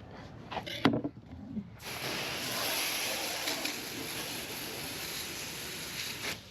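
A few light clicks, then a steady rushing noise that starts suddenly about two seconds in and cuts off abruptly near the end.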